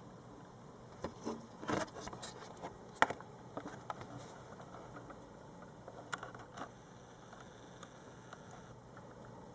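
Scattered clicks, taps and rustling as something is handled, with one sharp click about three seconds in. The handling noise stops after about seven seconds, leaving a faint hiss.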